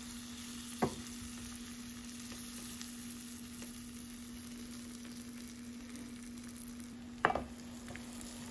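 Sliced dates, almonds and pistachios sizzling in melted butter in a stainless steel pan as they are stirred with a wooden spatula, over a steady low hum. Two sharp knocks, one about a second in and a louder one near the end, as the spatula hits the pan.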